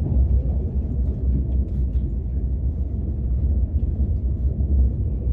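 Steady low rumble of a KTX high-speed train running, heard from inside the passenger cabin.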